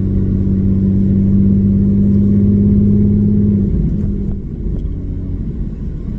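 Muffler-deleted Porsche Cayman S (987.1) 3.4-litre flat-six exhaust droning steadily while the car drives. About three and a half seconds in, the drone breaks up and gets quieter.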